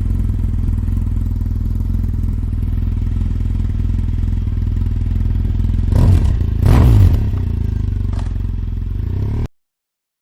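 BMW adventure motorcycle's engine running, low and steady, with two brief louder surges about six and seven seconds in. It cuts off abruptly near the end.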